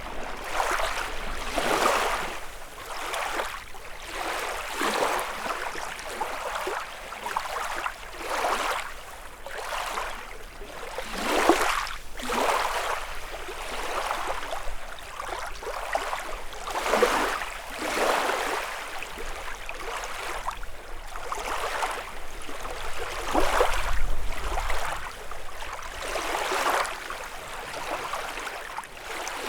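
Small lake waves lapping and splashing on the shoreline of Lake Kussharo, in uneven swells every second or two.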